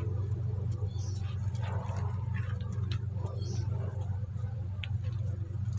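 A steady low hum, with faint light ticks and rustles as braided PE line is handled.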